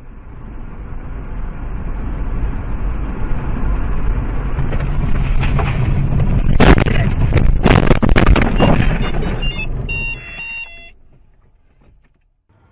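Vehicle noise from a moving car building steadily louder, broken in the middle by several loud sharp bangs, typical of a road collision. Short stepped electronic tones sound near the end before it all dies away.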